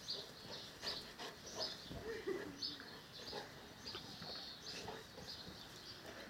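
Small garden birds chirping and singing over and over, with a few scattered soft knocks.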